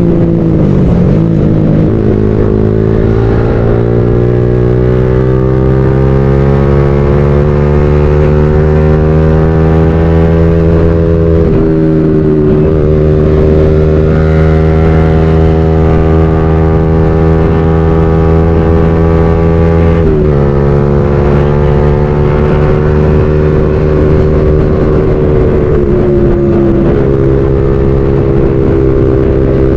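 Motorcycle engine under way, its pitch climbing slowly as it pulls. It drops suddenly twice, about a third and two-thirds of the way through, as the rider shifts up a gear, then dips slightly near the end.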